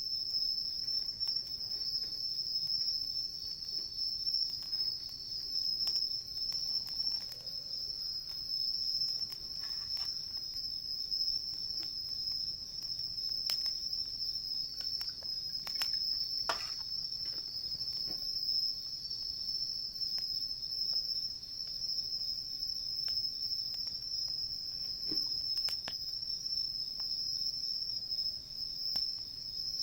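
Crickets chirring in a steady, continuous high chorus, with occasional sharp cracks and pops from a wood campfire.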